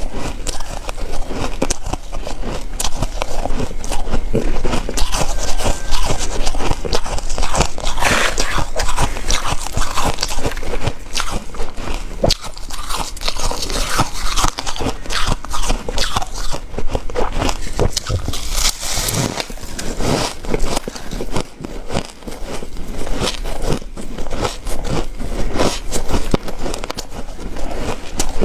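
Ice being bitten and chewed close to the microphone, one crisp crunching bite after another with no real pause.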